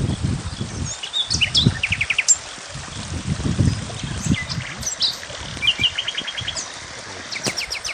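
Small birds calling: short high chirps and several quick trills of five or six notes, over a low rumble.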